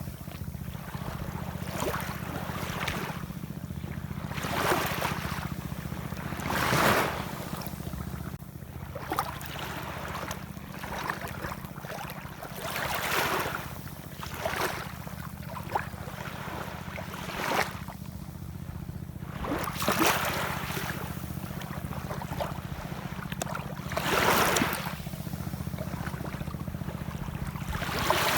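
Ocean waves washing in, each one a brief hissing surge a few seconds apart, over a steady low rumble.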